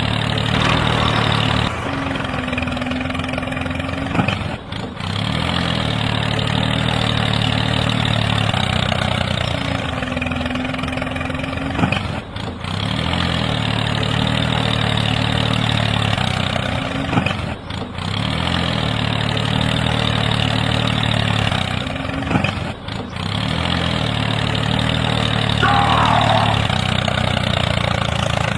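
Tractor engine idling steadily, with a brief dip in the sound every four to five seconds.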